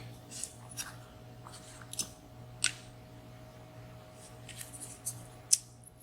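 Tweezers clicking against the small metal springs and pins of a disassembled WSW W10 padlock cylinder as the springs are worked out: a series of light, sharp, irregular clicks, the loudest about five and a half seconds in, over a steady low hum.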